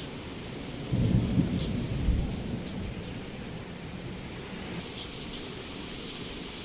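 Heavy rain pouring steadily against a window, with scattered drop ticks; about a second in a low clap of thunder breaks out and rolls for about a second and a half before fading back under the rain.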